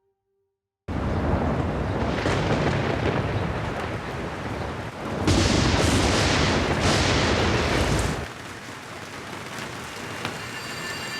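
Loud rushing, rumbling noise that starts suddenly about a second in, grows louder for a few seconds in the middle, then drops back to a quieter hiss.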